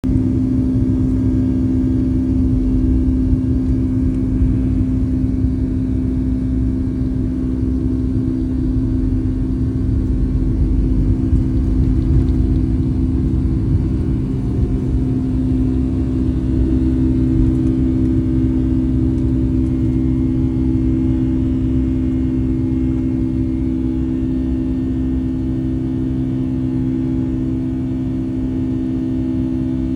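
Cabin noise aboard a Boeing 757-200 on takeoff: the jet engines at high thrust give a steady drone over a heavy low rumble, and the rumble eases slightly in the second half.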